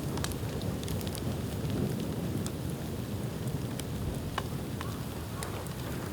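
Dead bamboo burning in an open bonfire: a steady low rumble under scattered sharp crackles and pops.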